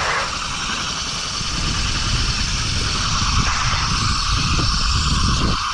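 Rushing wind and a steady rolling rumble from riding a roller-coaster-type zipline: air buffeting the action camera as the trolley runs along the rail. The low rumble grows heavier in the second half.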